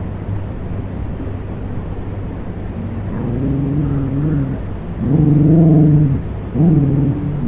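A dog calling out three times in low, drawn-out calls: one long, one shorter and louder, and one brief. A steady low rumble sits underneath.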